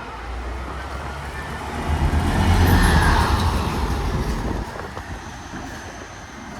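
A motor vehicle passes close by with a low engine rumble and road noise, building to its loudest about three seconds in and then fading away.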